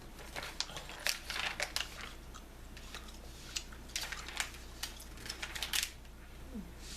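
Close-miked bubblegum chewing, with irregular wet smacks and clicks, along with the rustle of glossy magazine pages being handled and turned.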